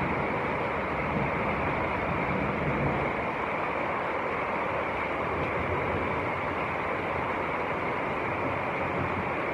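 Heavy rain and hail pouring down in a storm: a steady, even rushing noise with no breaks.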